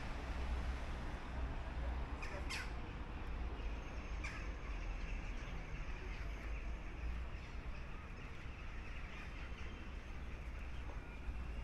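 A few short, sharp bird calls over a low steady rumble of background noise. The clearest calls come about two and a half and four seconds in.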